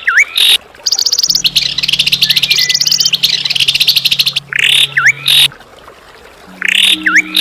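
Songbird calls: fast, high rattling trills and a sharp swooping call that dips down and back up. The swooping call comes three times, at the start, about five seconds in and near the end, as on a looped recording.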